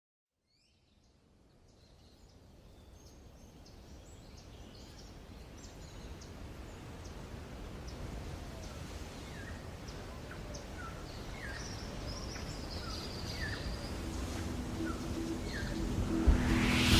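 Small birds chirping over a steady low outdoor rush that fades in from silence after about two seconds and slowly grows louder. Near the end a rising whoosh swells up.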